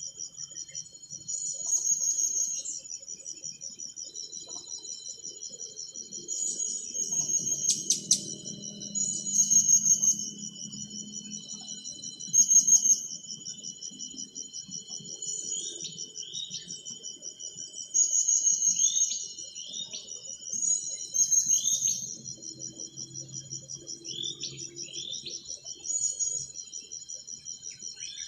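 A steady, high, pulsing insect trill that swells louder every few seconds, with a few short, high falling bird chirps in the middle.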